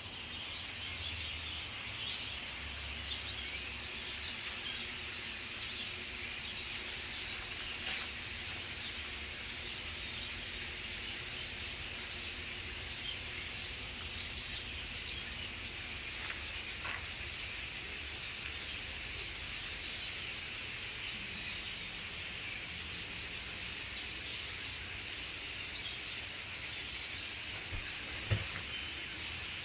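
A huge flock of birds all calling at once in the trees: a dense, continuous din of countless overlapping chirps and calls.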